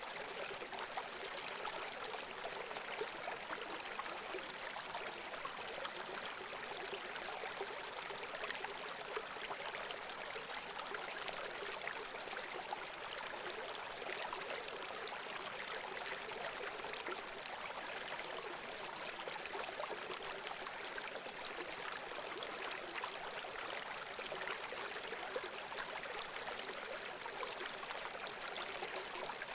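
Running water of a small stream, a steady, even trickling and splashing that stays light, with little deep rumble.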